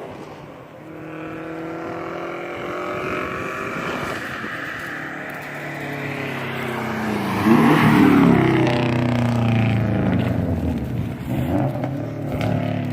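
Straight-piped 2013 Subaru WRX's turbocharged flat-four engine driving past. The exhaust note builds as the car approaches, is loudest about eight seconds in, and drops in pitch as the car pulls away.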